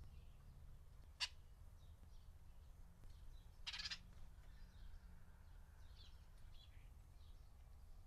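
Faint scattered bird chirps in the background, with a single sharp click about a second in and a brief flutter of songbird wings just before four seconds in as an oriole flies off the feeder.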